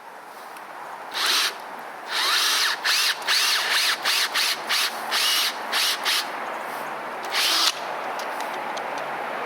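Power drill with a 7/16-inch bit boring a sap tap hole into a maple trunk, run in about a dozen short bursts on the trigger, the motor pitch rising within some bursts.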